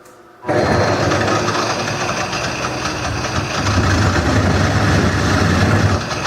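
Wood lathe switched on about half a second in, then running steadily with a low hum under a loud, even noise as the bowl spins.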